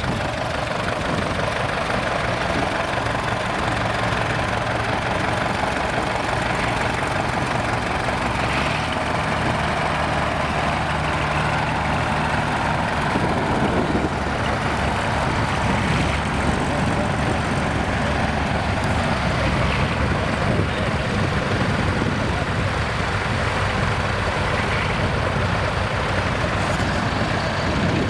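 Nuffield tractor engines running as the tractors drive around the arena, a steady engine note with no let-up.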